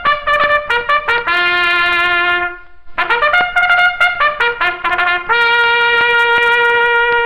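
Trumpet fanfare sound effect: two phrases of quick short notes, each ending in a long held note, with a brief pause between them.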